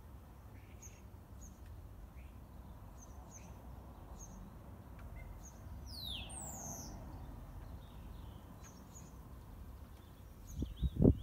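Small garden birds chirping with short repeated high notes, one louder call sweeping down in pitch about six seconds in, over a steady low rumble. A few low thumps near the end.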